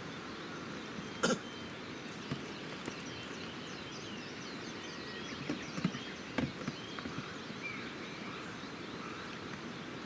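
Wood campfire crackling, with scattered sharp pops, the loudest about a second in and a cluster around the middle, over a steady hiss. Small birds chirp throughout.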